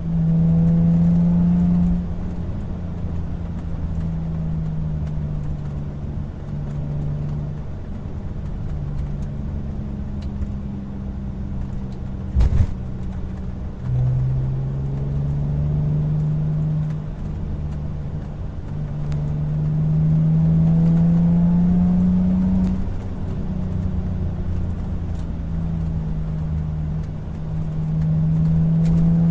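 Audi A4 B6's 3.0-litre V6 through a Remus-muffled stainless exhaust with an H-pipe and secondary-cat delete, on the move under varying throttle. The note swells and rises as the car accelerates, drops in pitch at a gear change, and there is one brief knock about twelve seconds in.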